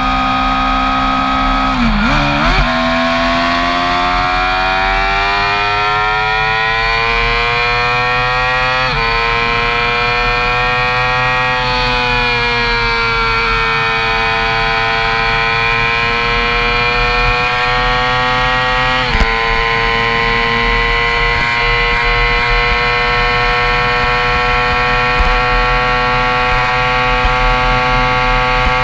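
Yamaha YZF-R6's 600 cc inline-four engine at full throttle, heard from the rider's seat: a high-pitched engine note that climbs steadily as the bike accelerates. The pitch drops sharply with an upshift about nine seconds in and again about nineteen seconds in, then holds steady near the top of the rev range at top speed, with a brief dip and rise in pitch about two seconds in.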